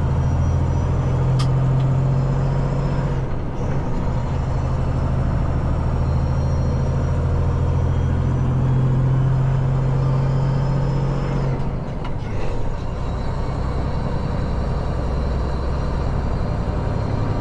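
Semi-truck diesel engine running steadily under way, heard from inside the cab, with a single sharp click early on. About twelve seconds in, the engine note drops lower.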